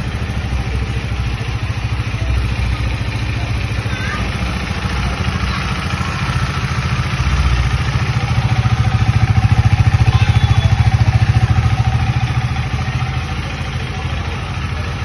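Single-cylinder motorcycle engine idling with a loud, even exhaust beat. It grows louder about halfway through for a few seconds, then eases back.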